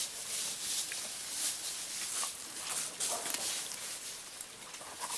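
People eating: chewing and munching food, with irregular crackly bites about every half second.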